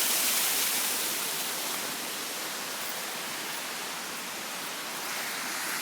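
Waterfall water rushing in a steady, even roar, easing slightly over the first couple of seconds and then holding level.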